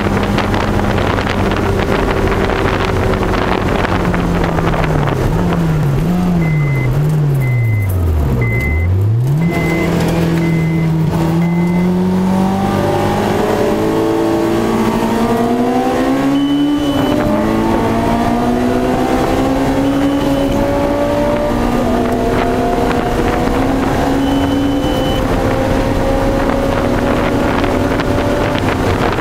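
Honda S2000 engine heard from inside the cabin at track speed. The revs fall with a few quick blips as the car downshifts, then climb steadily through the gears, with one gear change just past halfway. There is steady wind and road noise, and a string of short electronic beeps about a quarter of the way in, with a few more later.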